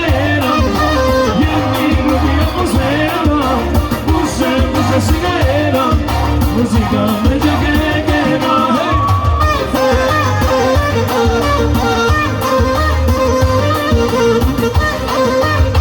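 Albanian folk wedding music: a singer with a band, a wavering melody over a steady low drum beat.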